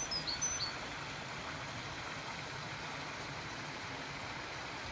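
Steady rush of flowing stream water, with a few short high bird chirps in the first second.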